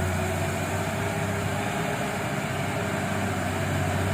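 Diesel engine of a loaded Mitsubishi Fuso coal truck running steadily under load as it pulls through soft ground, a constant low drone.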